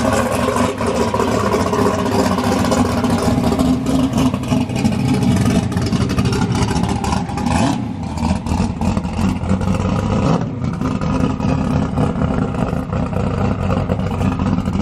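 A drag race car's engine running loudly with a steady, even note that dips briefly about eight seconds in and again a little after ten seconds.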